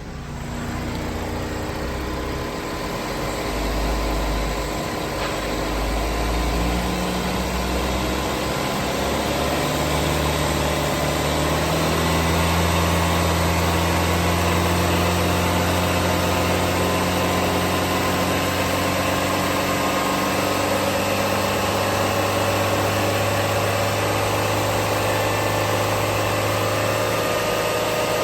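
2016 Chevrolet Equinox 2.4-litre four-cylinder engine running. Its speed steps up over the first dozen seconds with a rising whine, then it holds a steady run.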